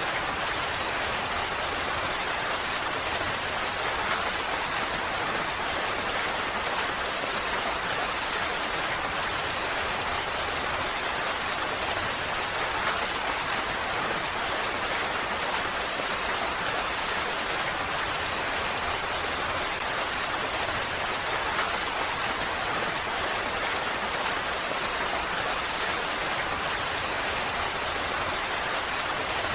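Steady rain falling, a continuous even hiss with faint scattered drop ticks and no change in intensity.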